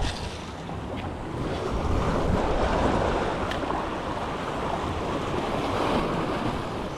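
Waves surging and washing, with wind buffeting the microphone; the surf swells about two seconds in and again near six seconds.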